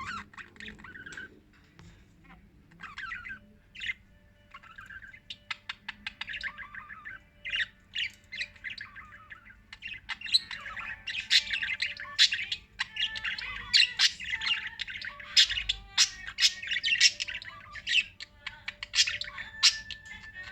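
Pet lovebirds chirping and squawking in a rapid run of short, sharp calls that grows busier and louder about halfway through.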